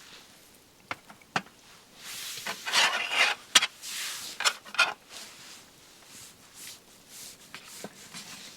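Scraping and rubbing broken by a few sharp clicks, loudest in a rasping stretch from about two to five seconds in, then fainter rustling.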